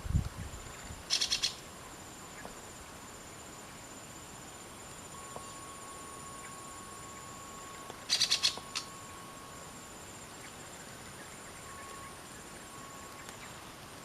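Red-breasted parakeet (betet) giving two short bursts of harsh, rapid chattering calls, about a second in and again around eight seconds, over a steady high insect drone. A low thump comes at the very start.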